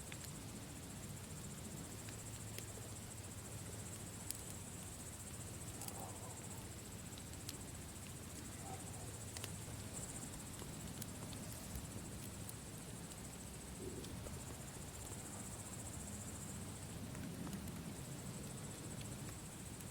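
Campfire burning with scattered sharp crackles and pops over a low rumble, with a steady, high insect chirring throughout.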